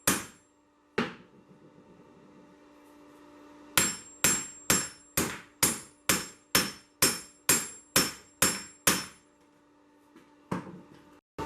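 Forging hammer striking hot 1085 carbon steel on an anvil while isolating a corkscrew's tang. Two single blows open, then after a pause comes an even run of about a dozen ringing strikes at roughly two a second, then a few light taps near the end.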